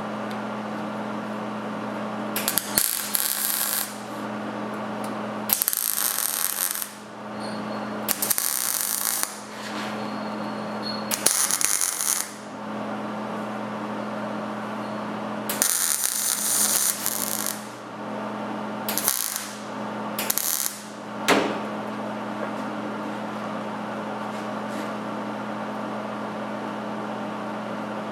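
Electric arc welding on the sheet-steel door panel of a K5 Blazer: about seven short crackling welds, each a second or two long, over a steady electrical hum from the welder. A sharp click comes shortly after the last weld.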